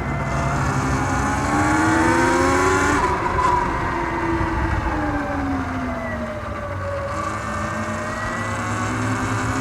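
Surron X Light Bee electric dirt bike's motor whining with speed, over wind and tyre noise. The whine rises in pitch for about three seconds as it speeds up, falls as it slows, then rises again near the end.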